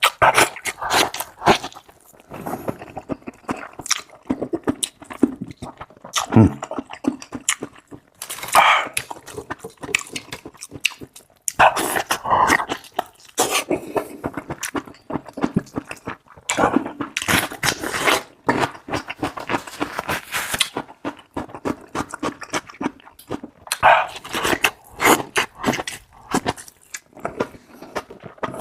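Eating sounds from tripe being chewed: dense runs of wet clicks and squelches, broken by short pauses.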